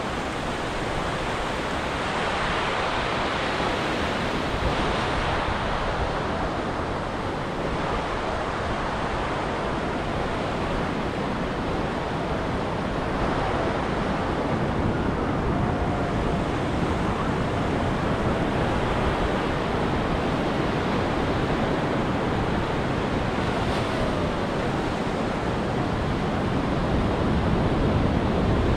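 Ocean surf breaking and washing up a beach: a continuous rush of noise that swells and eases slowly.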